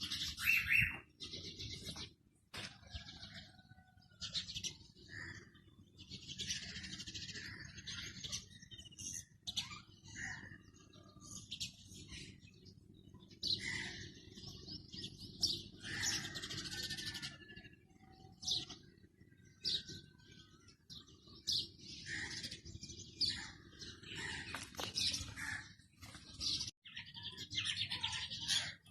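Ringneck parakeets chirping and chattering in many short, scattered calls, over a steady low hum.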